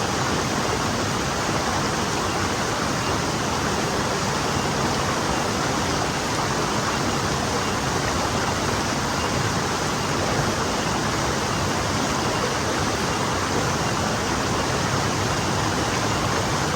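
Forest stream flowing and splashing over rocks, a steady, even rush of water with no change.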